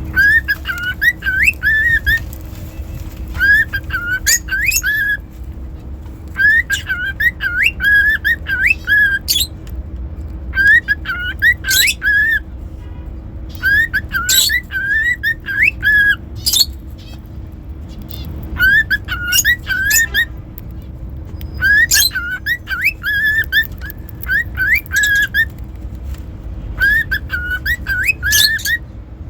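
Cockatiel whistling the same short warbling phrase over and over, a burst every two to three seconds, with sharp high chirps mixed in.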